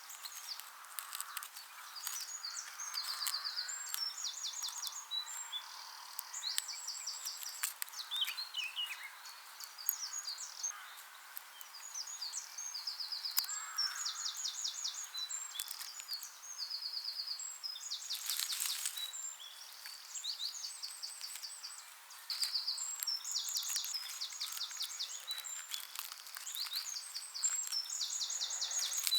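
Songbirds singing outdoors, with short fast trills and chirping phrases repeating every second or two, over light scattered clicks and crackles. A brief louder rustle comes about eighteen seconds in.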